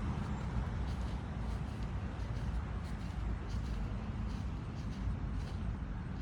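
Steady low outdoor rumble of passing traffic, with faint footsteps on pavement.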